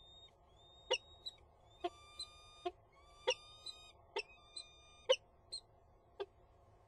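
Peregrine falcon calling: drawn-out, thin, high 'eee' wailing notes, several of them, broken up by short sharp clicking notes.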